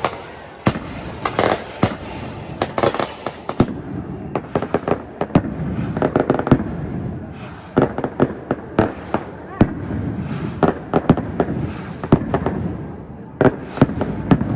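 Firecrackers going off in a rapid, irregular string of sharp bangs and pops, dozens of them over a few seconds.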